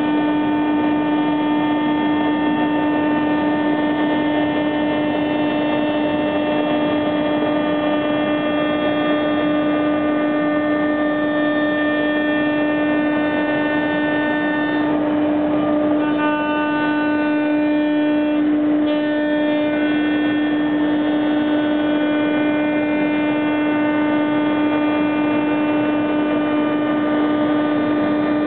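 CNC router spindle running with a steady whine over a continuous cutting noise; around the middle the upper overtones of the whine waver and shift for a few seconds before settling again.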